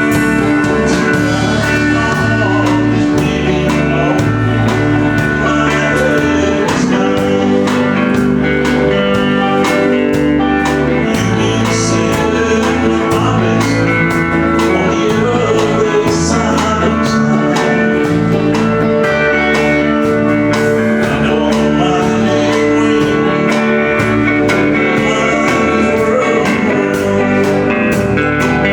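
A live country band playing a song with a steady beat.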